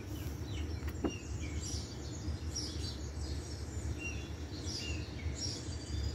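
Small birds chirping in the background: short, high, falling chirps repeated irregularly throughout, over a low steady hum.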